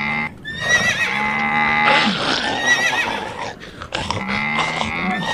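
Animal sound effects: a horse whinnying several times, with a cow's low, drawn-out moos between and beneath the whinnies.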